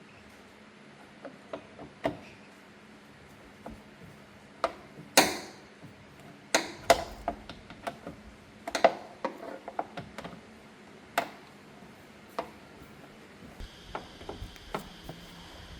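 Irregular clicks and knocks of hand tools and car parts being handled and set down, a dozen or so sharp strokes spaced unevenly, the loudest about a third and halfway through.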